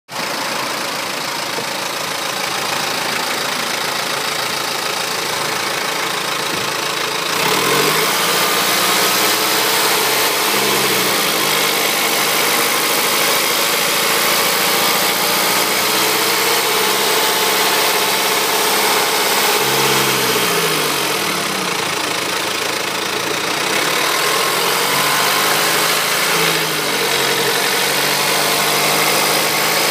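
BMW E91's engine running after a timing-chain repair. About a quarter of the way in it gets louder, and its pitch rises and falls a few times as the revs go up and come back down.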